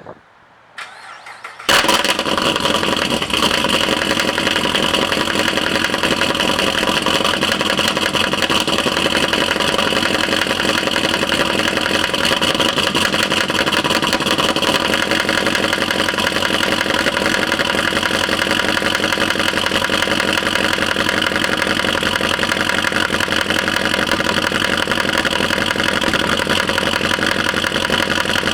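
Cammed 2012 Chevy Caprice PPV 6.0 L LS V8 starting up about two seconds in and then running steadily with a knock, the noise of a rocker arm that had failed and thrown its needle bearings.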